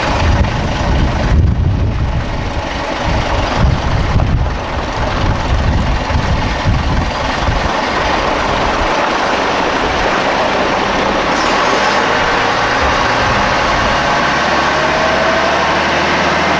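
A heavy vehicle's engine running, rumbling unevenly at first and then settling to a steady hum, with a faint rising whine in the last few seconds.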